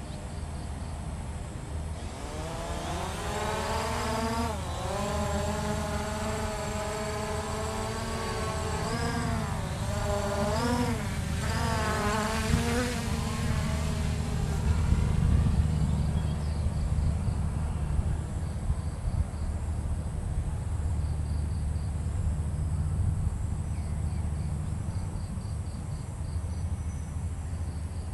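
Hubsan H501S quadcopter's brushless motors whining as they spin up about two seconds in, the pitch wavering up and down as it lifts off and holds, then fading away after about fourteen seconds over a steady low rumble.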